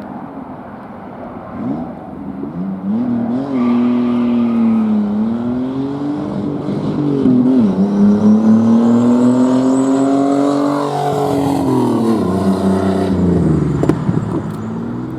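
Pontiac Fiero engine, not yet turbocharged, accelerating hard: the revs climb, drop sharply at two upshifts about five and seven and a half seconds in, climb again, then fall away near the end as the driver lifts off.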